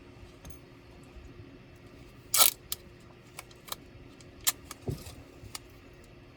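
Clicks and light clatter of small parts and tools being handled while an ASUS K3605Z laptop is taken apart. One loud rattle comes about two and a half seconds in, followed by a handful of lighter clicks and a duller knock near five seconds, over a steady low hum.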